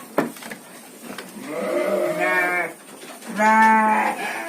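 Garut sheep bleating: two long, wavering bleats a second or so apart, the second one louder. There is a single sharp knock just before them.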